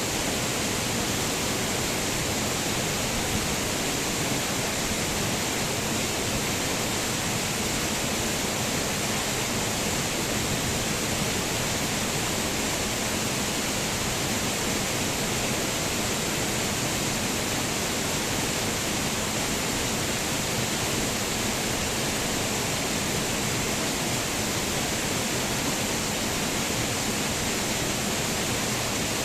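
Waterfall: a steady, dense rush of falling water that does not change.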